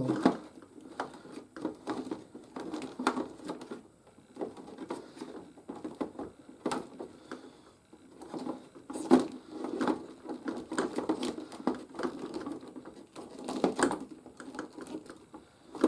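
Close handling noise: irregular rustling, light clicks and a few sharper knocks, as plastic toy figures or the hand-held camera are handled and moved.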